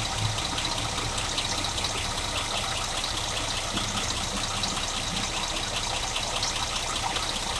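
Scania Irizar PB coach's diesel engine idling, a steady even running noise with light regular ticking, about two or three ticks a second.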